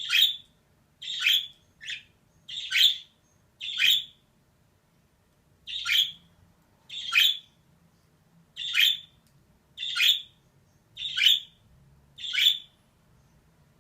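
Female budgerigar giving a series of short calls, about one a second, eleven in all, with a pause of about two seconds near the middle.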